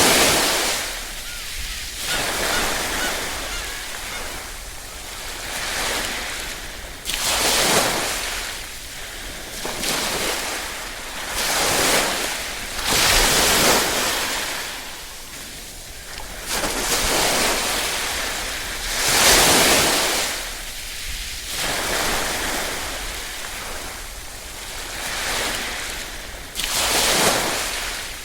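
Small waves lapping and washing ashore in a steady series, each wash a rush of surf that swells and fades over a few seconds. The biggest washes come about 7, 13 and 19 seconds in.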